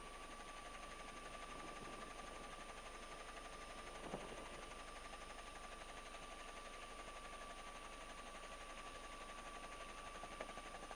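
Steady faint hiss of a police radio recording between transmissions, with a thin steady tone running through it and a single click about four seconds in.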